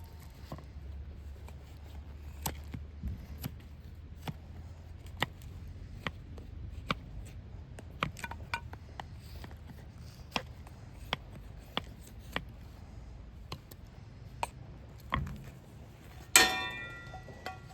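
Irregular sharp pops and ticks, with one loud ringing metal clang about sixteen seconds in that fades over about a second.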